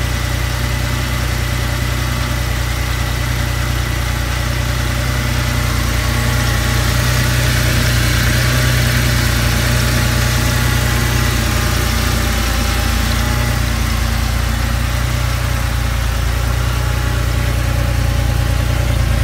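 Air-cooled Porsche 911 flat-six engine idling steadily, freshly started after a repair of its #2 rocker shaft, which had walked out.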